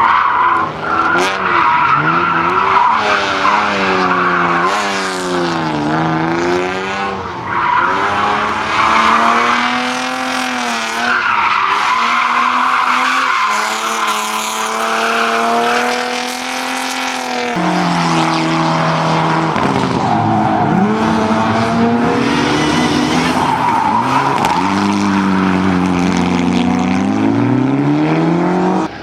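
Car engine driven hard, revving up and dropping back again and again through gear changes, with tyres squealing at times.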